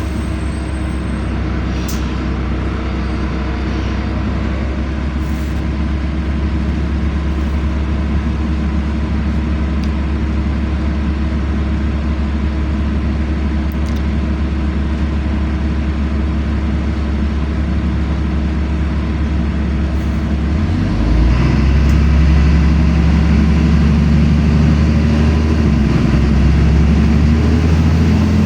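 LiAZ-5292 city bus engine running, heard from inside the bus: a steady low hum with road noise. About three quarters of the way through the engine note rises and grows louder as the engine revs up, then holds at the higher pitch.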